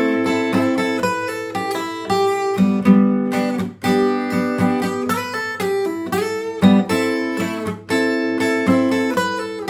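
Acoustic guitar music: plucked and strummed notes in a steady flowing pattern.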